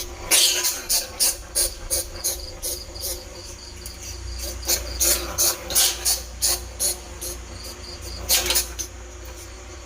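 Bandicoot rat giving a quick, irregular run of short, sharp squeaks, about two to three a second, with a fast-pulsing insect chirp steady underneath.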